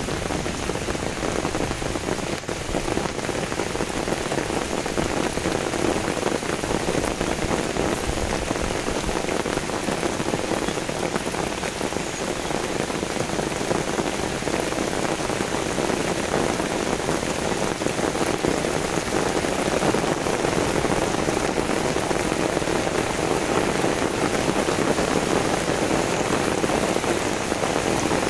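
Steady rain falling, an even hiss of drops throughout.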